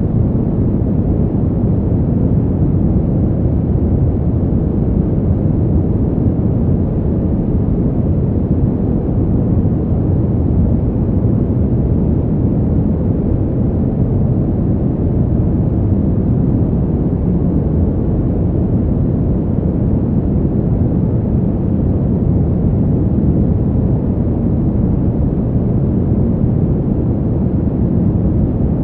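Steady, low, muffled winter wind rumble with an even level and no gusts or breaks, used as sleep white noise.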